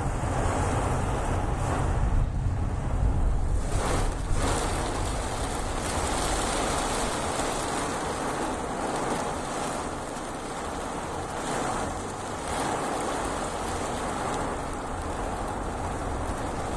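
Fairly heavy rain falling steadily, an even hiss throughout. A low rumble lies under it for the first few seconds and then fades.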